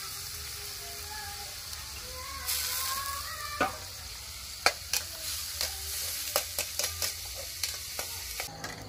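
Food frying in a wok over a wood fire, a steady sizzle that swells for about a second some two and a half seconds in. Through the second half, a run of sharp irregular clicks and knocks.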